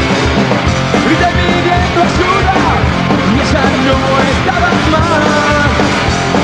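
Punk rock band playing live: a loud, dense instrumental passage with a steady beat, with pitched lines bending up and down above it.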